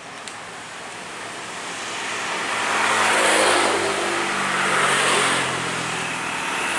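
Road traffic: motor vehicles passing, their engine and tyre noise swelling and fading, loudest about three seconds in and again near five seconds.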